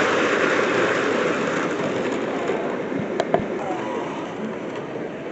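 Model train rolling along the layout track with a steady running noise that slowly fades, and two sharp clicks a little over three seconds in.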